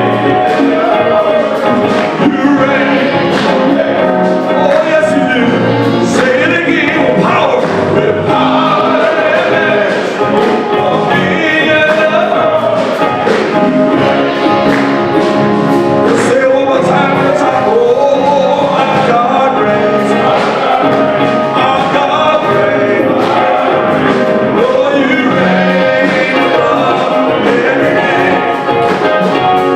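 Gospel music with singing voices over a full band, playing continuously at a steady loud level.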